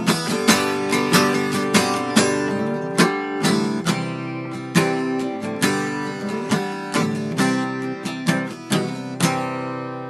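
Acoustic guitar strumming the song's closing bars, ending on a final chord that rings and fades out.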